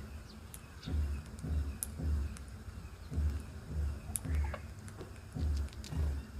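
Short, high bird chirps scattered over a steady low beat of about two thumps a second, like a music track's bass drum.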